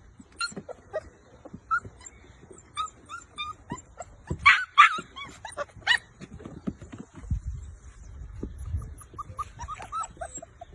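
Akita puppies giving many short, high-pitched yips and whimpers, loudest in a cluster about four to six seconds in and picking up again near the end.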